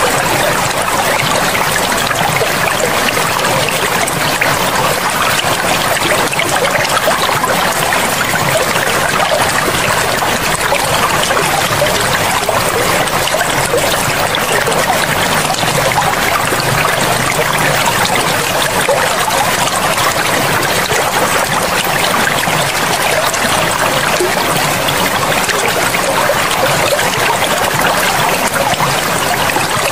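A forest river or stream running steadily: continuous splashing and rushing water with no pauses or changes.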